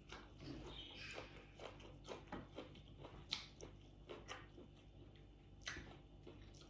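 Faint chewing and mouth sounds of a person eating by hand, with scattered small clicks and crunches, a couple of them a little louder.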